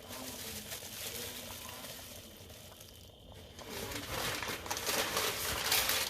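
Crinkling and rustling as peeled shrimp are tipped into the gumbo pot, louder from about four seconds in.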